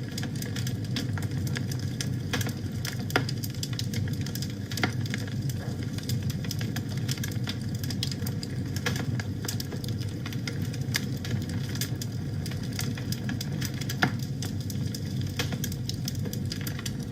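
Wood fire burning in a fireplace: a steady low rumble of flames with frequent irregular crackles and pops from the burning logs, a few sharper pops standing out about 3 and 14 seconds in.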